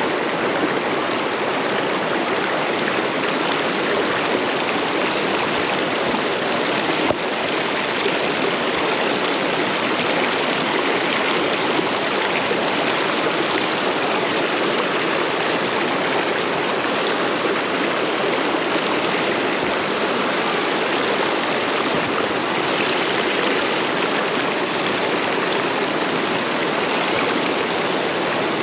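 Fast-flowing stream water rushing steadily, an even unbroken wash. A single brief knock about seven seconds in.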